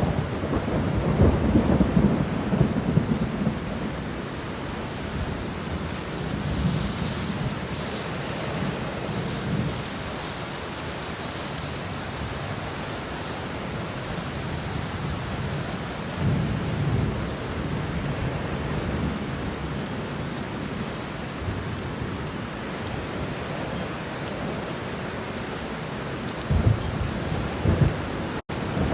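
Thunderstorm sound effects: a steady hiss of rain with low thunder rumbles swelling up several times. Near the end the sound cuts out for an instant, as at a splice.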